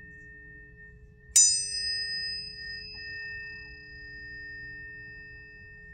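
Planetary tuning forks ringing with steady pure tones. About a second in, another fork is struck with a bright metallic ping, the loudest sound here. It rings on while its high overtones slowly fade.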